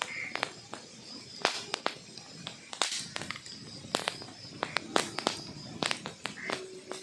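Wood logs burning in a fireplace, crackling with irregular sharp pops and snaps over a low hiss.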